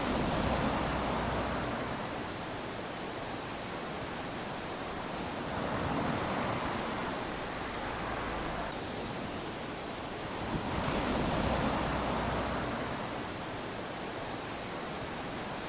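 Small waves lapping onto a sandy beach, the wash swelling and easing about every five seconds.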